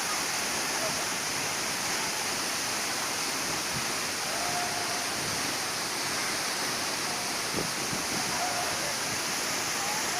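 Waterfall rushing in a steady, even roar of falling water, with a couple of faint short tones in the middle.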